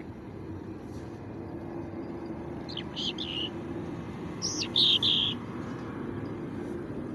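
A bird gives two short, high chirping calls, about three and five seconds in; the second is louder. A steady low hum runs underneath.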